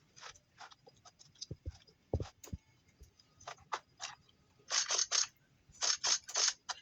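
Scattered knocks and clicks with a few short scraping rustles, about five seconds in and again near the end; no saw is running.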